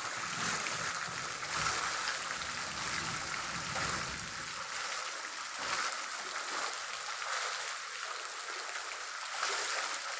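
Heavy monsoon rain pouring down, a steady dense hiss.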